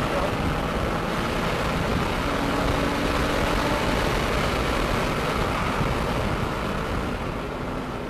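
Porsche 911 Carrera 2S Cabriolet's flat-six engine running at speed on a race track, heard from inside the open-top car under a steady rush of wind noise. The level dips slightly near the end.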